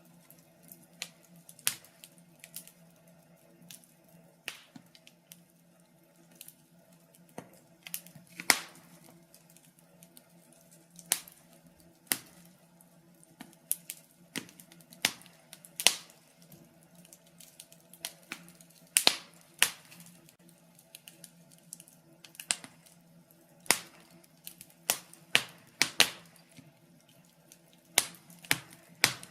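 Wood fire burning in a fireplace, the logs crackling with irregular sharp pops, some much louder than others, over a faint steady low hum.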